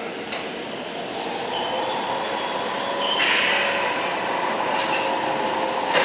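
Toyama Chiho Railway 14760-series electric train running on the rails, its wheels squealing in high tones that grow louder about three seconds in, with a sharp click near the end.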